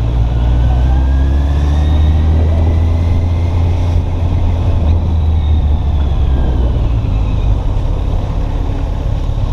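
Motorcycle engine running as the bike is ridden at low speed, with a heavy low rumble. The pitch rises over the first few seconds and falls back again; the rumble eases about seven seconds in.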